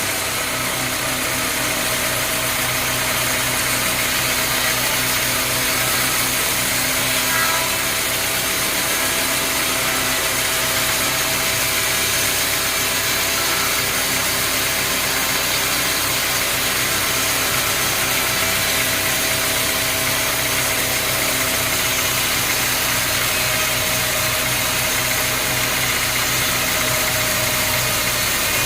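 Engine-driven sawmill machinery running steadily: a constant engine hum under a high hiss.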